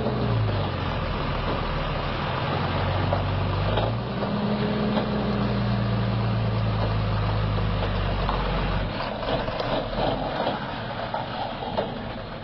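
Heavy truck's diesel engine running, its pitch rising and falling slightly with the throttle. About three quarters of the way through the engine note falls away and an uneven, rattly noise remains.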